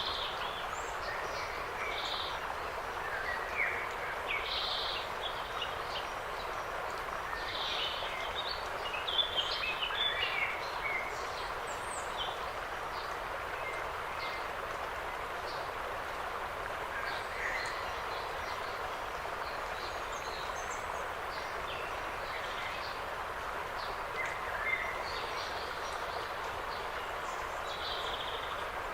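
Songbirds chirping and calling at scattered moments over a steady background hiss of forest ambience, with the busiest stretch of calls about eight to eleven seconds in and more near the end.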